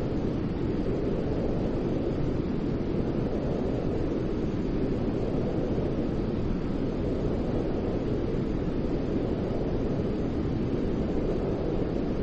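Steady, deep white noise for lulling a baby to sleep: an even rushing hiss weighted toward the low end, with no change in level.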